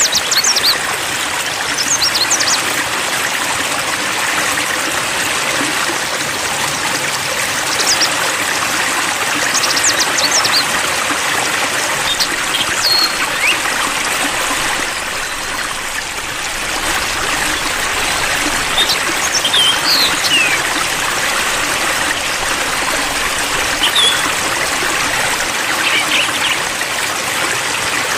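Running water trickling and splashing steadily, played as a calming pause in a songbird training track, with a few faint, short, high bird chirps here and there.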